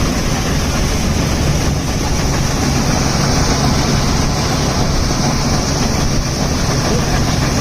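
Swaraj 855 tractor's three-cylinder diesel engine running steadily at an even speed.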